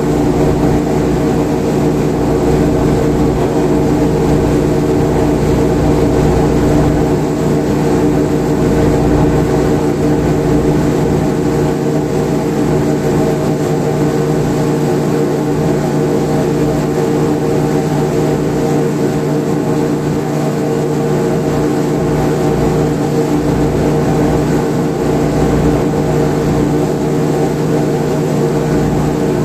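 Sightseeing boat's engine running steadily: an even, unchanging drone with a fixed low hum.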